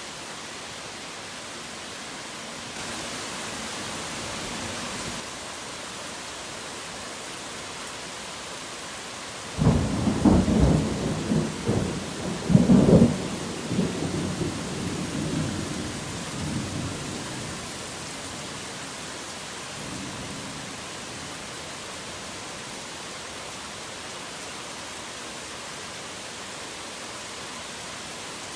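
Steady heavy rain hiss. About ten seconds in, a sudden thunderclap breaks into a rolling rumble with several loud peaks, dying away over about seven seconds.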